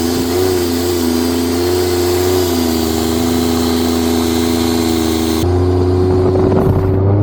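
Turbocharged Ford Barra 4.0 L six-cylinder engine of a race boat running with a steady low note that wavers slightly in pitch, under a hiss. About five and a half seconds in, the hiss drops away and the low rumble grows louder.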